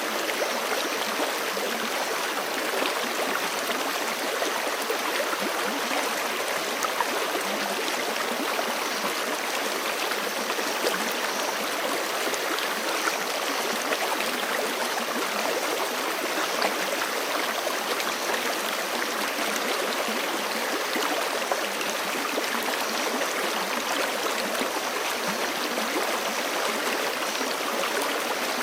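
Forest creek running over rocks: a steady, even rush of water with small splashes and gurgles.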